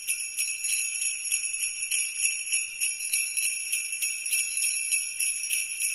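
Sleigh bells jingling continuously, a bright shimmering ring with slight pulses of loudness from the shaking.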